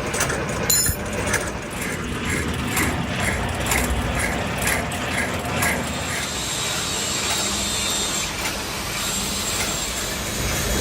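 Workshop machine tool running with a steady low hum, with a regular clicking about twice a second through the first half, then running on more evenly with a faint high whine.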